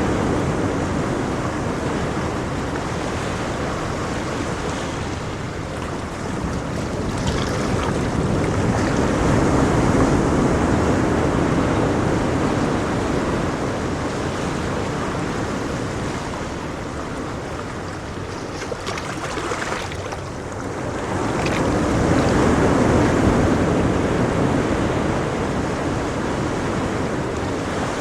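Ocean waves washing onto a shore in a steady rush of surf, swelling and easing slowly, with one swell about ten seconds in and another past the twenty-second mark.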